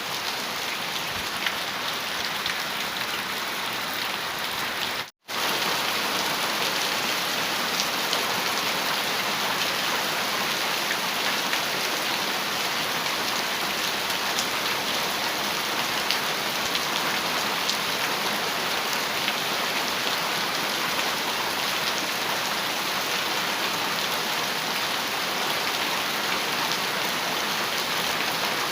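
Heavy rain falling on a metal roof: a steady, dense hiss of drops with faint separate ticks. About five seconds in, the sound cuts out for a split second, then comes back slightly louder.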